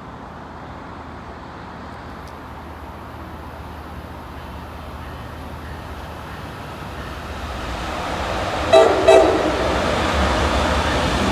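An approaching train's rumble growing steadily louder, with two short blasts of the locomotive horn close together about nine seconds in.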